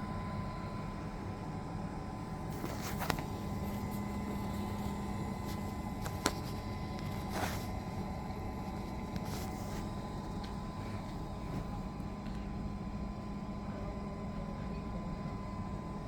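Coffee machine running: a steady hum with a thin high tone over it, and a few light clicks.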